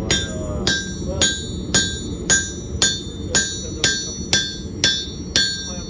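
Hammer striking a hot-chisel driven into a red-hot tomahawk head on an anvil, eleven even blows about two a second, each with a bright metallic ring. The chisel is leaned over to pull a bulging, off-centre eye hole back straight. A steady low rumble runs underneath.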